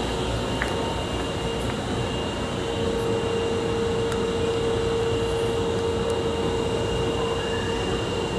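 Osaka Metro Tanimachi Line subway train at a station, a steady rumbling hum with a constant mid-pitched whine that grows stronger a couple of seconds in.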